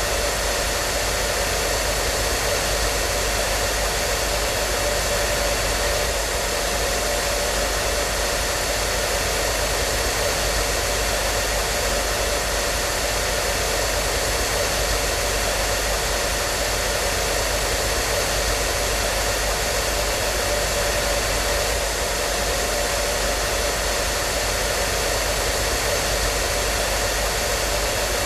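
Hair dryer running continuously: a loud, steady blowing hiss with a constant motor hum underneath, unchanging throughout.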